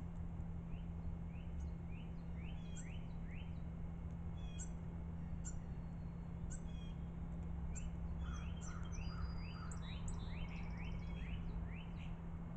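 Songbirds calling: a string of short, sharp chirps and quick slurred notes, busier in the second half with a rattling buzz and a brief whistle, over a steady low hum.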